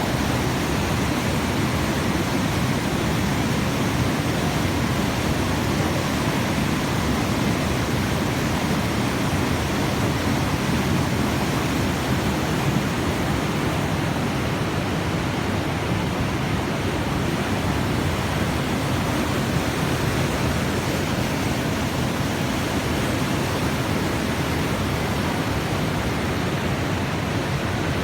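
Steady, unbroken rushing natural ambience of a rocky island, an even noise heaviest in the low range with no distinct events.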